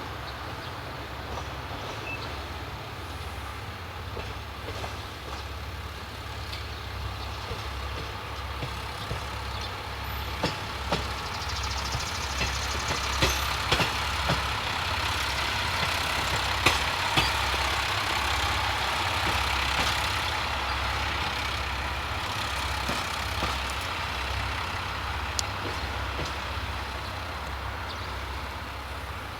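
JNR-era diesel railcar running, its engine a steady low drone, with a swell of running noise in the middle and sharp clicks of wheels over rail joints.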